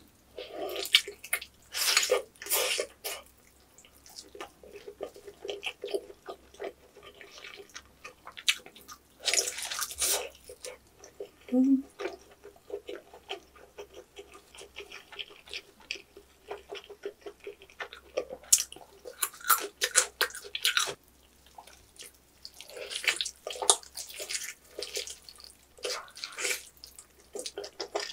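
Eating roasted pork knuckle (Schweinshaxe): crackling bites into the crisp-roasted skin and wet, smacking chewing of the meat, coming in several bouts with quieter pauses between.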